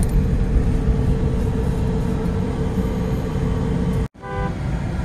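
Car engine running at low speed, heard from inside the cabin as a steady drone with a constant hum. About four seconds in, the sound cuts out abruptly for a moment and a brief pitched tone follows.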